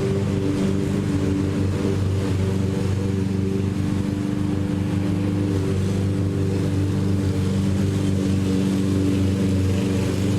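Lawn mower engine running steadily at a constant speed, a steady drone with no change in pitch.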